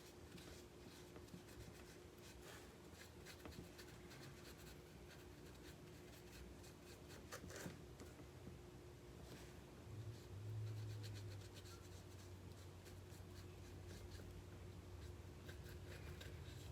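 Faint, irregular scratching and rubbing of a paintbrush working black acrylic paint into a small craft piece, with a low hum coming in about ten seconds in.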